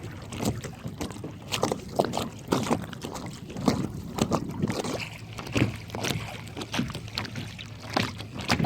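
Water splashing and slapping against a plastic kayak hull as it moves, in short, irregular splashes, two or three a second, over a low steady rumble.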